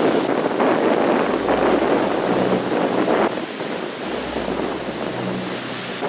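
Rushing wind noise on the microphone, with a low bass note recurring about every second and a half underneath.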